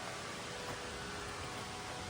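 Steady, even hiss of a rushing mountain brook.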